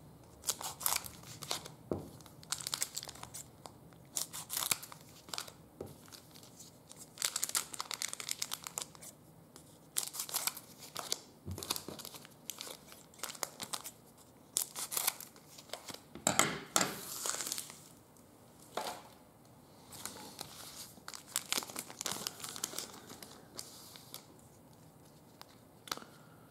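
Trading card pack wrappers being torn open and crinkled by hand: repeated irregular crackling rustles and tears, with a few soft knocks.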